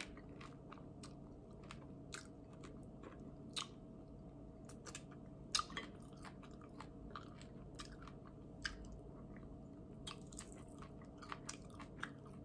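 Chewing barbecue chicken wings: soft, scattered mouth clicks and smacks at irregular intervals, over a faint steady hum.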